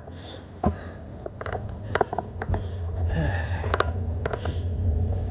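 Bicycle riding noise: scattered sharp clicks and rattles, with a low rumble building from about two seconds in.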